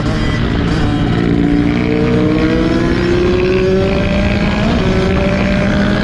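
Kawasaki dirt bike engine running under acceleration, its pitch climbing steadily for a few seconds and then climbing again near the end, over a heavy low rumble of wind on the microphone.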